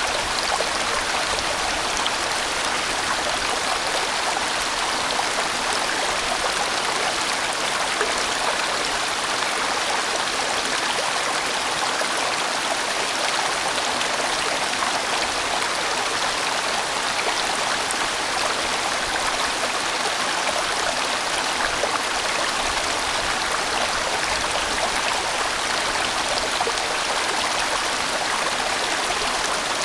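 A large mountain stream rushing steadily over rocks, a constant full, even water sound.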